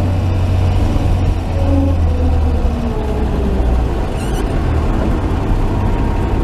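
1949 Chevy pickup truck driving, its engine running steadily with road and drivetrain rumble, heard from inside the cab.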